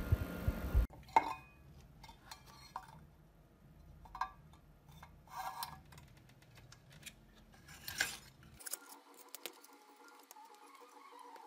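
Light clinks and taps of small hard objects being handled, a few separate knocks spread out with quiet between them. A loud low noise cuts off suddenly just under a second in.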